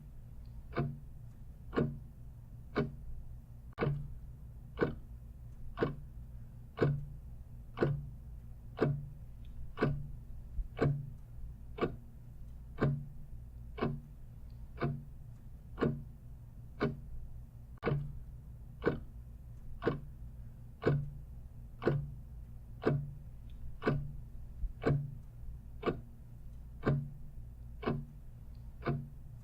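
Clock ticking steadily, about two even ticks a second, over a low steady hum.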